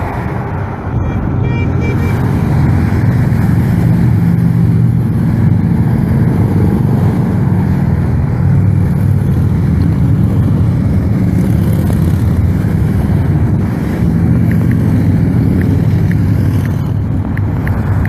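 A stream of motorcycles riding past in a procession, their engines making a steady, continuous drone.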